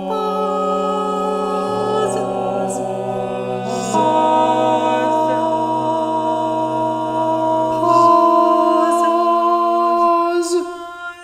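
A cappella choir singing long, held chords in several parts, the harmony shifting a few times before the voices release together near the end.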